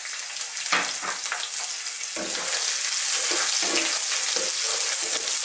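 Sliced red onion, garlic and ginger sizzling in hot oil in a nonstick pot. From about two seconds in, a wooden spoon scrapes them around the pan in short strokes.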